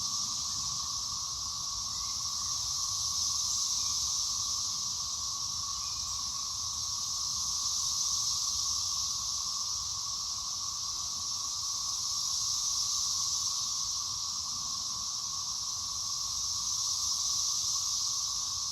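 Chorus of Brood XIX 13-year periodical cicadas: a dense, steady drone of many insects at once, swelling and easing gently every four to five seconds.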